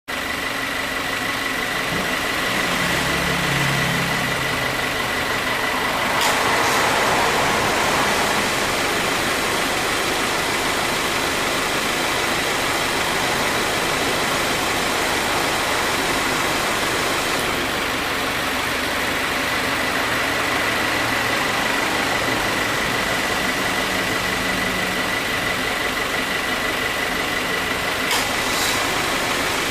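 2018 Subaru WRX idling while its A/C compressor cycles on, with a sharp click about six seconds in followed by a brief swell of noise, and more clicks near the end. The abnormal noise at compressor start-up is a sign of light compressor wear: it cycles about three times a minute and cooling has weakened.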